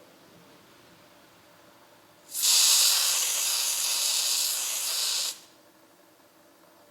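A loud, steady hiss lasting about three seconds, starting about two seconds in and cutting off suddenly.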